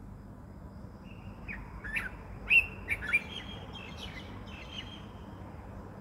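A songbird giving a short run of quick chirps, several of them dropping sharply in pitch, loudest about two and a half seconds in, over a steady low outdoor rumble.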